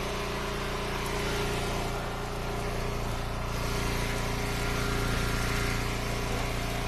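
Gas engine of an Eastonmade Ultra log splitter idling steadily, left running to burn off its fuel once the splitting is done.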